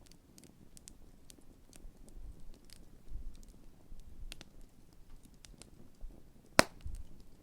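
Large wood campfire crackling, with scattered small snaps and one loud pop about six and a half seconds in, over low rumbles.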